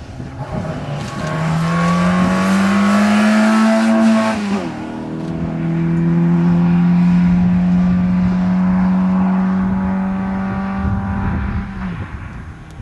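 Peugeot 205 competition car's engine accelerating hard, rising in pitch, then a gear change about four and a half seconds in. After the shift it pulls on at a steady note and fades as the car moves away.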